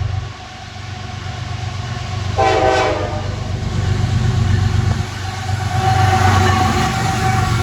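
Diesel locomotive running with a steady low rumble, giving one short horn blast about two and a half seconds in, followed by louder train noise.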